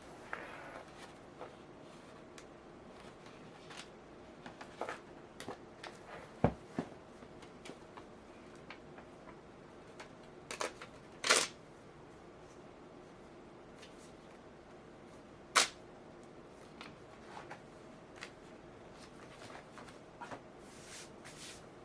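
Stationery being handled on a desk: scattered light clicks and taps, with three louder sharp clicks spread through.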